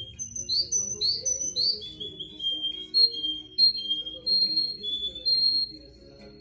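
Russian canary singing a run of clear whistled notes, with three quick rising sweeps near the start and then held repeated notes, breaking off shortly before the end.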